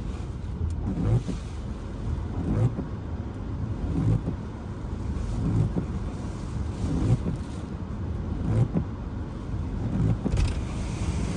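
Hurricane-force eyewall winds buffeting a car, heard from inside the cabin as a deep rumble that surges in gusts about every second and a half. Near the end a higher hiss of wind-driven rain or wind comes in.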